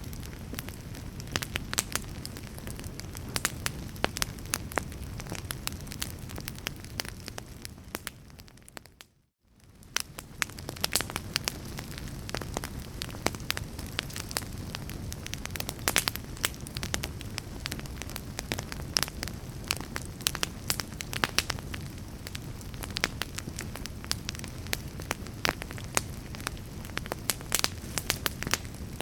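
A fire crackling, with frequent sharp pops and snaps over a steady low rumble. About nine seconds in, the sound fades briefly to silence and then fades back in.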